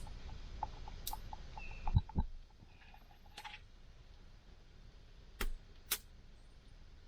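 Wood campfire crackling: small ticks and a handful of sharp, separate pops a second or two apart, over a low rumble that drops away about two seconds in.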